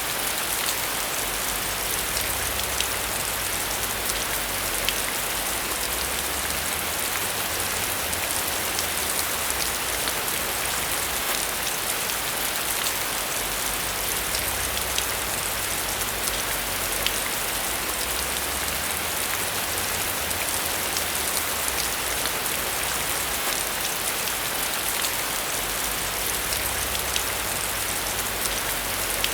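Steady rain falling on a surface, a dense even hiss with many small drop ticks, over a faint low rumble that swells and eases.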